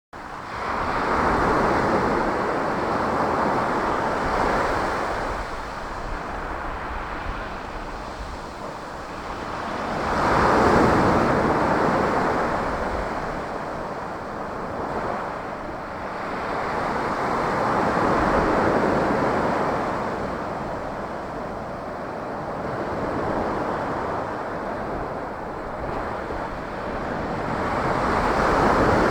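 Waves breaking on a beach in a slightly choppy sea, the surf swelling and easing every several seconds, with some wind on the microphone.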